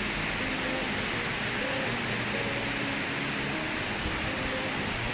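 Steady rush of falling water from a 50 ft waterfall: an even, unbroken hiss.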